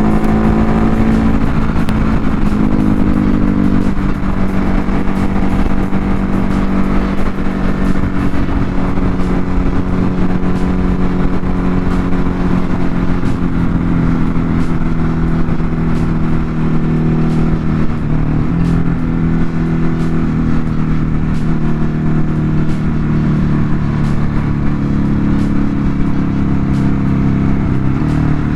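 Ducati Hypermotard 950's L-twin engine running steadily at cruising speed, under heavy wind noise on the helmet microphone. Its pitch falls over the first second or so, then holds steady with a small dip about two-thirds of the way through.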